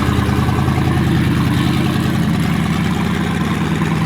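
Car engine idling, holding a steady low pitch throughout.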